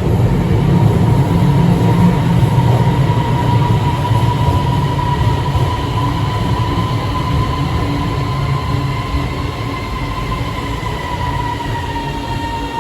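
Metro train pulling in and slowing at the platform: a low rumble with a steady electric whine that dips slightly in pitch near the end, the whole sound fading gradually as it comes to a stop.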